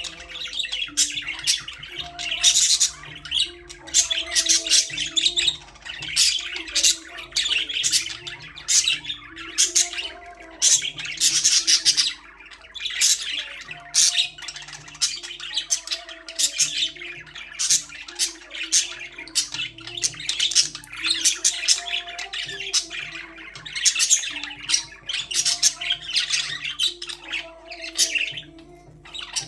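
Budgerigars chirping and chattering in a dense, rapid stream of short high calls that keeps going without a break.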